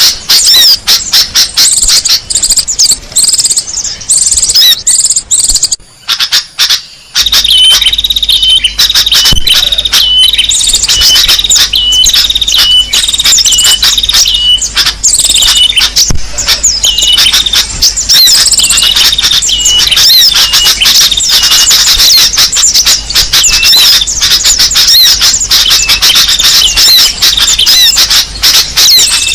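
Recorded calls of small songbirds played as a bird lure: dense, high-pitched chirping and twittering. After a brief drop about six seconds in, a short high call repeats about one and a half times a second over the busier chirping.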